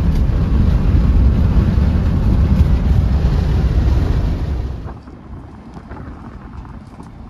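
Loud low rumble of a moving vehicle with wind buffeting the microphone. It drops off suddenly about five seconds in to a much quieter background with a few faint clicks.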